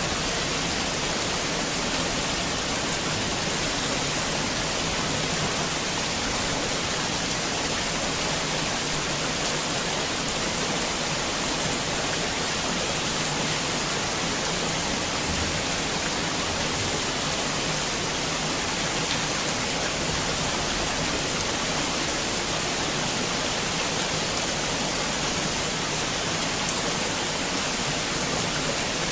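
Heavy rain falling steadily, a dense even hiss of rain with no distinct drops or thunder standing out.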